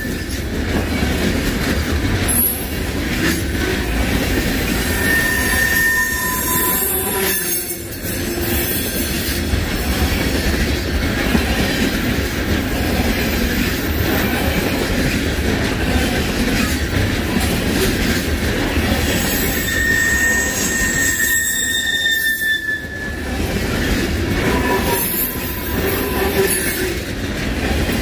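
Freight train rolling past with a steady rumble of wheels on rail, and wheel squeal: thin high-pitched tones that rise out of the rumble and fade away again several times.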